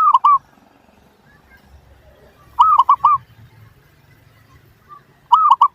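Zebra dove (perkutut) cooing: three short phrases of quick, arched notes, each a few notes long, repeated about every two and a half seconds.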